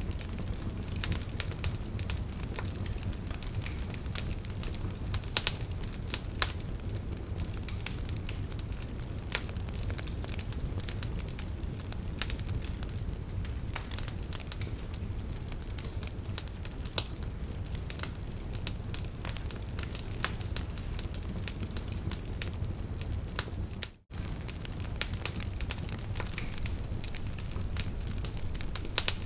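Wood fire burning in a fireplace: a steady low rumble of flames with frequent, irregular sharp crackles and pops. The sound drops out for an instant about four-fifths of the way through.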